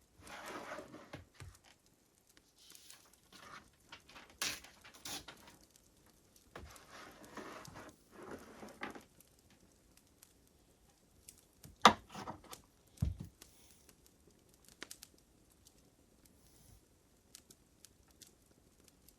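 Papers and desk items being handled while studying: short bouts of rustling, a sharp knock about twelve seconds in and a dull thump just after, then a few faint ticks.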